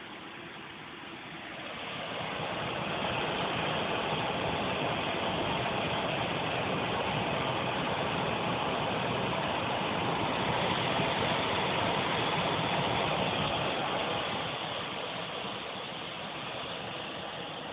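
Improperly installed gas furnace running with a steady rushing noise that swells about two seconds in, holds, and eases back near the end.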